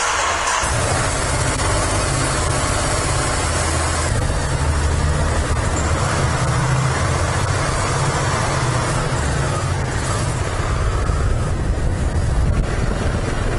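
Vehicle under way: a steady low rumble with road and wind noise.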